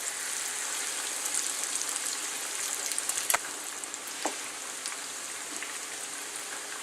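Seasoned chicken pieces frying in a pan of hot oil: a steady sizzle, with two sharp pops about a second apart a little after the middle.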